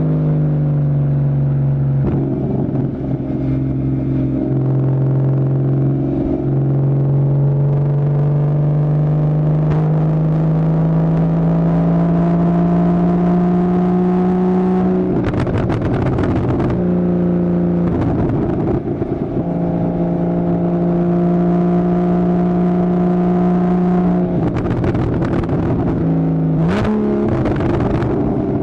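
2015 Porsche Boxster's 2.7-litre flat-six running through a Fabspeed Maxflo aftermarket exhaust on the move. The engine note drops at first, then climbs slowly and holds steady, with a quick jump up in revs near the end. It is broken by several spells of rushing noise.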